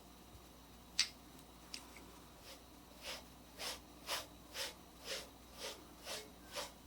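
Etching needle scratching lines into the ground of a copper plate: a single click about a second in, then from about three seconds a steady run of short scratching strokes, about two a second, as in hatching.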